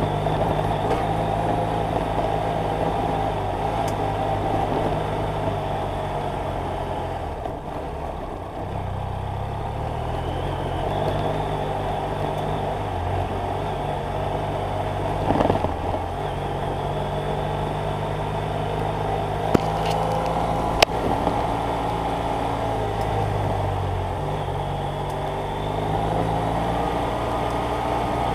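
BMW F800GS Adventure's parallel-twin engine running while the motorcycle is ridden, with road and wind noise. The engine note dips about seven seconds in and then shifts pitch in steps. Two sharp clicks sound about twenty seconds in.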